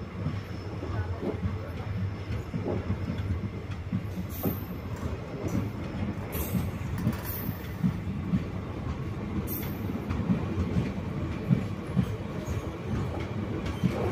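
Passenger express train pulling out and moving slowly along the track: a steady low rumble with irregular clanks and knocks from the wheels and carriages, which come louder in the second half.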